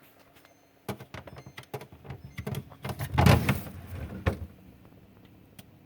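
A refrigerator's plastic vegetable drawer being slid and handled, with clicks, knocks and rattling. The loudest thump comes about three seconds in, and a last knock follows a second later.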